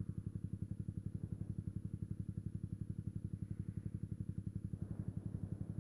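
Yamaha YZF-R125's single-cylinder four-stroke engine idling steadily, a fast even putter, while the bike waits at a red light.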